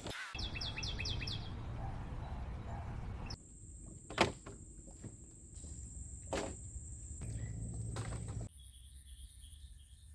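A bird calls a quick run of five falling whistled notes, over a steady outdoor background. Later come a few sharp knocks and a fainter bird calling.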